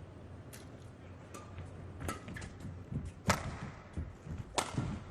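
Badminton rally: rackets striking the shuttlecock in sharp cracks about once a second, the loudest a bit over three seconds in, with a few short shoe squeaks on the court.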